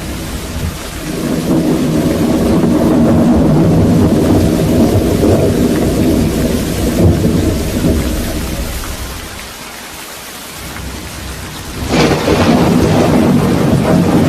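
Thunderstorm: steady rain with rolling thunder that swells, dies away, then a sudden crack of thunder near the end rolls on into a long rumble.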